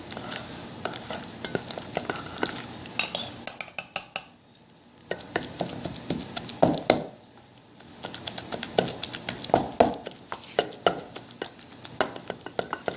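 A utensil mashing and stirring bananas and butter in a bowl, with quick irregular clinks and scrapes against the bowl; it pauses briefly twice, about four and seven seconds in.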